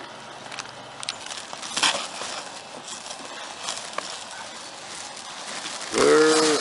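Crinkling and crackling of the AquaDam's plastic sheeting being handled, with scattered light clicks and a louder crackle about two seconds in. A short shout from a person's voice comes near the end.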